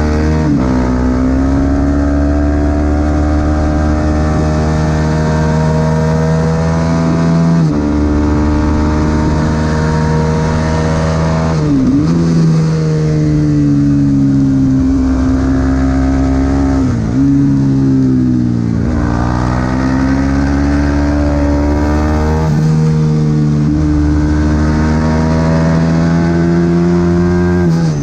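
Supersport 300 race motorcycle engine running hard at high revs. Its note climbs steadily and breaks off sharply at each gear change, about seven times, with a few quick dips and recoveries where the rider shifts down.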